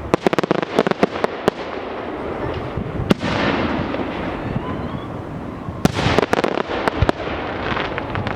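Fireworks display: a quick salvo of sharp bangs, then a single heavy burst about three seconds in trailing into crackling hiss, and another cluster of bangs near the end.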